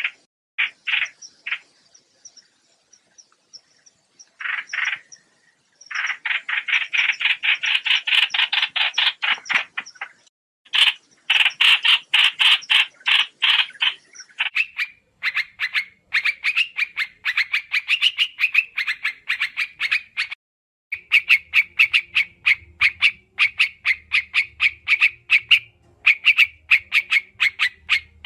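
Trao trảo bird calling in bouts of fast, rapidly repeated chattering notes, recorded as a lure call. There is a pause of a few seconds near the start, broken by one short burst, and then long bouts of chatter follow.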